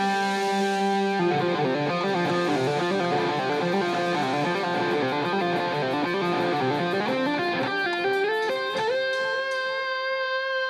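Amplified plucked-string instrument playing a fast solo of quick note runs, settling on a long held note near the end.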